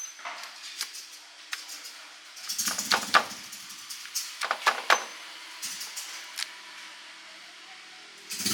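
Scattered clinks and knocks of cooking gear being handled, with bursts of clatter about three seconds in and again around five seconds in.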